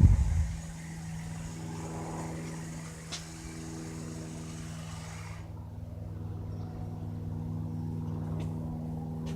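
Small propeller aircraft droning steadily overhead, a single even engine tone slowly growing louder. A brief loud low rumble fades out in the first half second.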